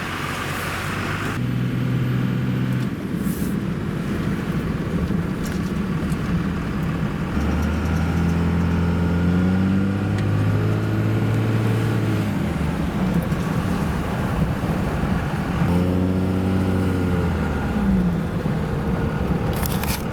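Dodge Ram pickup with a Cummins inline-six turbo-diesel driving along the road: steady engine drone and road noise, with the engine note shifting a few times as the speed and gears change.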